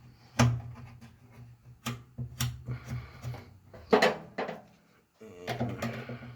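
Clicks and clunks of metal parts being handled and fitted on a pellet grill, a handful of sharp knocks at uneven intervals, the loudest about two thirds of the way through, over a low steady hum.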